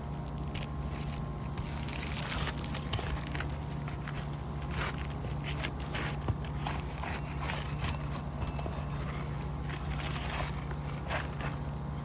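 Irregular scraping and crackling as old asphalt shingles are pried apart and their nails worked out. The shingles are brittle and old and crack as the nails come out. A steady low hum runs underneath.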